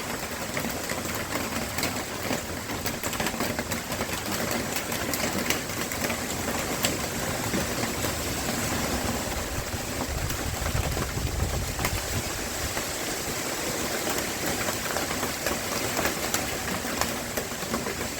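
Hurricane wind and heavy rain rushing steadily, with many small ticks and clicks of rain and debris. A strong gust buffets the microphone with a deep rumble about ten seconds in.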